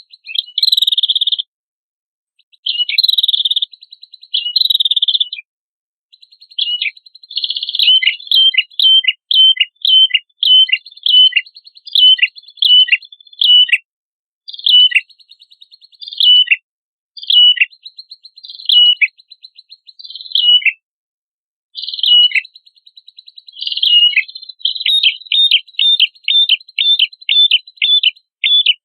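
Prenjak kepala merah, a small songbird, singing without a break. It opens with buzzy trills, then gives strings of sharp notes that each drop steeply in pitch, about two a second, quickening to about three a second near the end.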